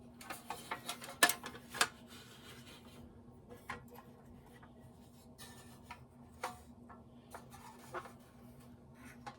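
Handling of a Nylint toy truck: a burst of sharp clicks and knocks in the first two seconds, the two loudest about half a second apart, then scattered light clicks, over a steady low hum.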